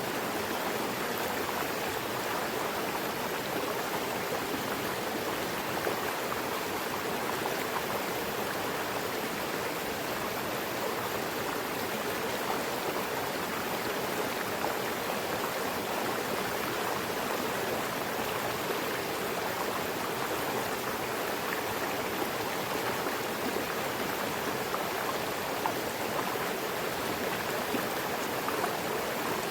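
Mountain river rushing steadily over rocks, an even, unbroken noise of flowing water.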